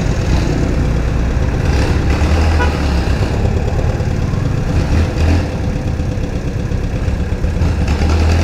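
Yamaha Sniper 155's single-cylinder engine running steadily while the motorcycle is ridden uphill, with road and wind noise over it.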